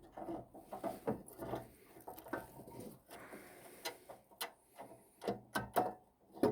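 Irregular clunks, clicks and knocks of hand tools and metal parts being handled during exhaust repair work, with the sharpest strikes in the last couple of seconds.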